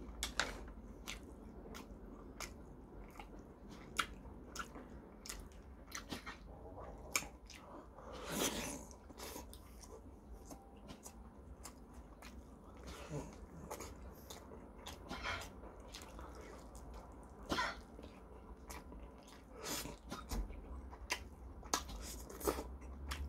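A man chewing and biting into a piece of broth-soaked chicken taken from a bowl of ramen, with many short wet mouth clicks and smacks scattered irregularly throughout.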